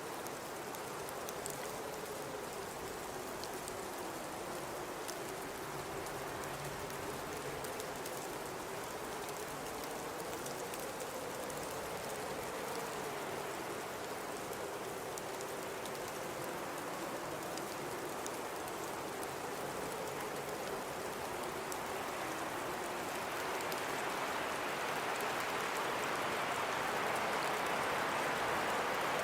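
Howling blizzard wind: a steady rush of noise carrying a moaning tone that wavers slowly up and down, swelling louder about three quarters of the way through.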